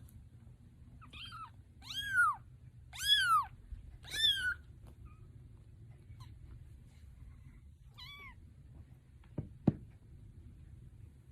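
A cat meowing: four meows rising and falling in pitch in quick succession, then one more meow after a pause. Near the end come two short knocks.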